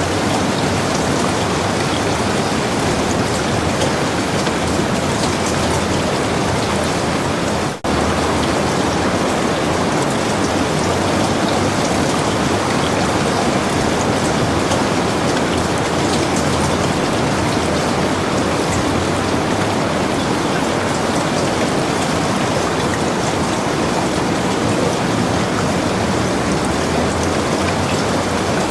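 Heavy rain pouring steadily, with a momentary dropout in the sound about eight seconds in.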